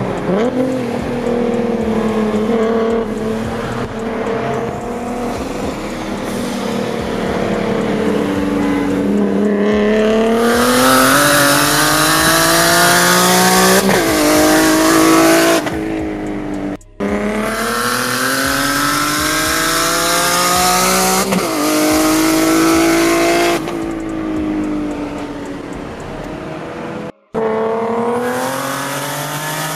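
Tuned BMW 335i's twin-turbo N54 straight-six, heard from inside the cabin. It cruises at part throttle for about ten seconds, then makes several hard full-throttle pulls, its note climbing steadily and dropping sharply at each upshift.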